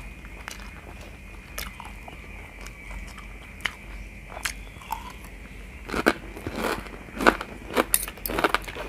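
Close-up chewing and mouth sounds of someone eating chicken-giblet basil stir-fry with rice, with a spoon and fork scooping food. The clicks are sparse at first, then come quicker and louder from about six seconds in.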